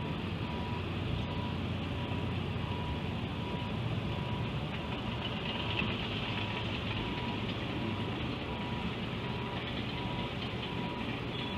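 Steady car-cabin road and engine noise while driving, with a faint high beep repeating at an even pace throughout.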